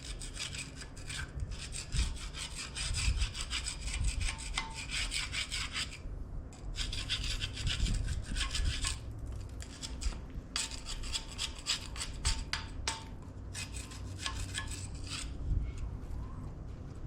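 Hand scraping of packed dirt and old oil off a cast-iron tractor part, in runs of quick strokes broken by short pauses.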